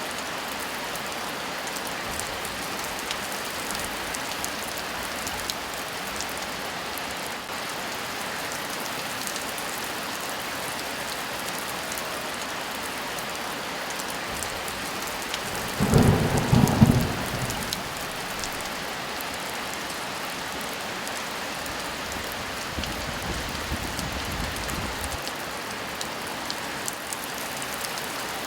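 Steady heavy rain, with a sudden loud thunderclap a little past halfway and a lower, softer rumble of thunder a few seconds later.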